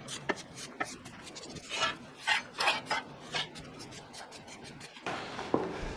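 Light clicks and a run of short scraping strokes of a hand tool on half-inch steel plate, four or five strokes between about two and three and a half seconds in.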